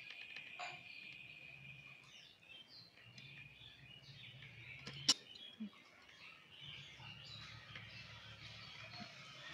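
Birds chirping faintly in the background, with a single sharp click about five seconds in.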